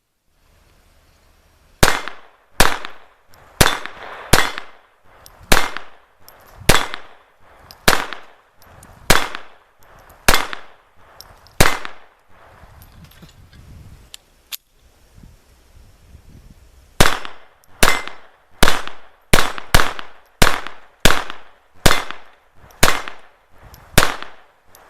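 Llama Especial .22 LR semi-automatic pistol firing two strings of about ten shots each, roughly one shot a second, with a pause of about five seconds between the strings. The pistol is cycling reliably, running "like a sewing machine".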